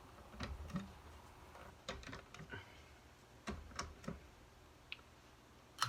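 Faint, scattered light taps and clicks of a phone being handled, about eight at uneven spacing, with a sharper click near the end.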